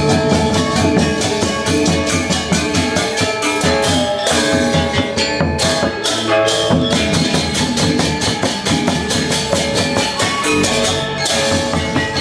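Balinese gamelan gong ensemble playing a classical lelambatan piece: bronze metallophones and gongs ring under fast, even interlocking strokes, with cymbals and drums. The high cymbal strokes drop out briefly about halfway through.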